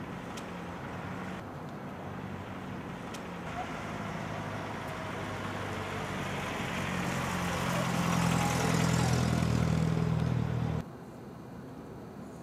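MGA Twin Cam's twin-overhead-cam four-cylinder engine running as the car drives up, growing louder as it approaches, then cutting off abruptly about eleven seconds in.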